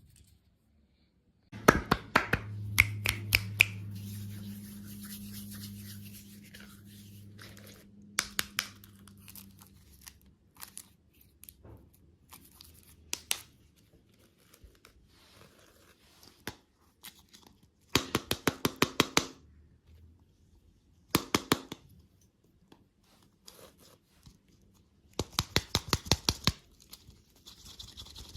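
Candy packaging being handled: several short spells of rapid crackling and tearing, with quieter rustling between them.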